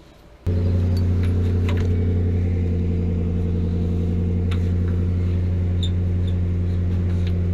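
Steady low hum of an engine running, starting suddenly about half a second in and holding an even pitch.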